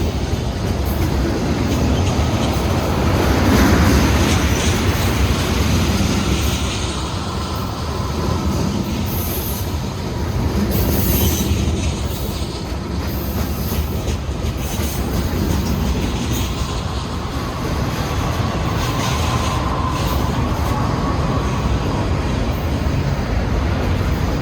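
Freight cars of a long Union Pacific train rolling past: a steady rumble of steel wheels on rail with clatter over the rail joints and a faint wheel squeal now and then.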